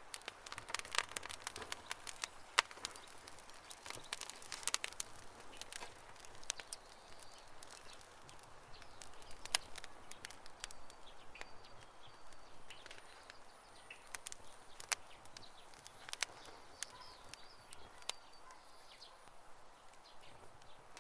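Wood campfire crackling, with irregular sharp pops and snaps over a soft steady hiss. The pops come thickest in the first few seconds.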